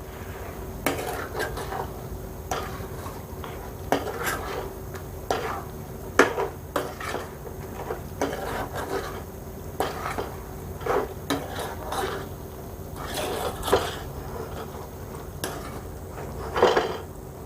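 Spoon stirring chicken pickle in a cooking pan, with irregular clinks and scrapes against the pan.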